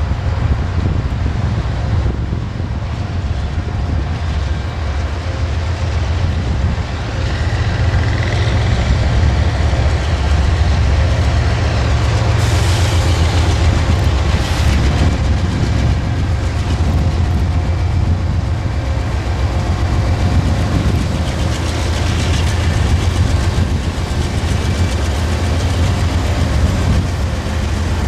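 A train passing close by: a continuous heavy rumble of wheels on rail. It grows louder several seconds in and stays at its loudest through the middle.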